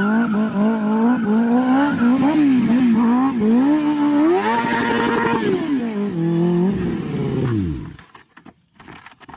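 Motorcycle engine being blipped over and over, its pitch rising and falling, then held at higher revs about halfway through before winding down and dying away near the end, leaving a few faint clicks.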